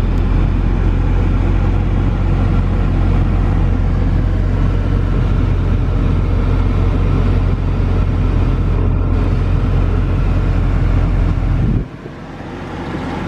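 A car engine running steadily with a deep, even drone, then cutting off abruptly near the end.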